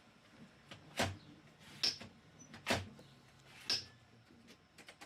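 Four loud knocks or clunks, about one a second, over a faint low hum.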